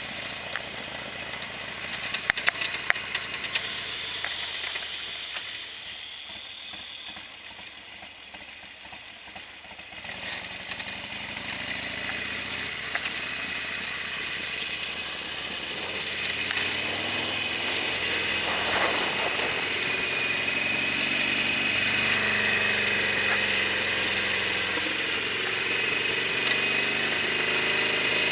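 Harley-Davidson Sportster XL1200R's 1200 cc air-cooled V-twin running while the bike is ridden, with road and wind noise. It drops lower for a few seconds about a third of the way in, then builds steadily again.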